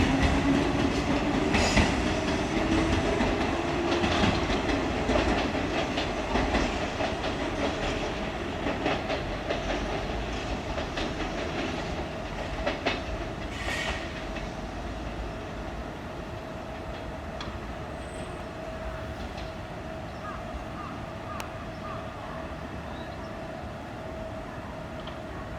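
Kintetsu Minami Osaka Line electric train moving away, its wheels clicking over rail joints and its motor tone rising early on as it picks up speed, the sound fading steadily.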